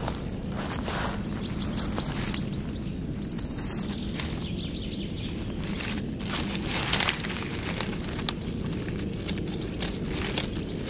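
A small bird chirping in short high notes, single or in quick runs of three or four, over steady low background noise. Dry leaf litter rustles and crackles as a hand moves through it, loudest about seven seconds in.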